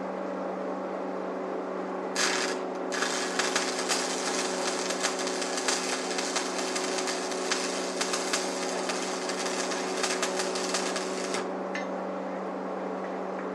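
Stick (arc) welding: the arc crackles and spits steadily for about nine seconds, starting about two seconds in, over a steady low hum. The crackling stops abruptly near the end.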